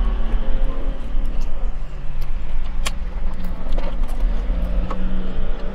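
A car engine running close by, a steady low rumble, with a few crisp crunches of lettuce being chewed close to the microphone.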